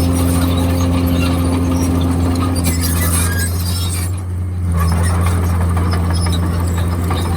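Komatsu D51PX bulldozer's diesel engine running steadily, with high squeals from the moving tracks. The engine sound drops briefly a little past halfway, then comes back.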